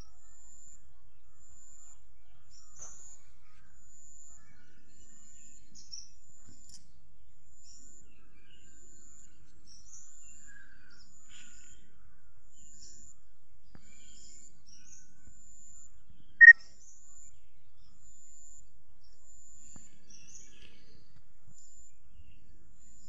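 Birds chirping: a short, high call repeats about once a second, with scattered faint chirps and one louder chirp about sixteen seconds in.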